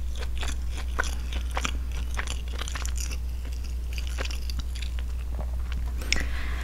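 Close-miked chewing of the last of a grilled broccoli cheese sandwich: a steady run of small, irregular mouth clicks.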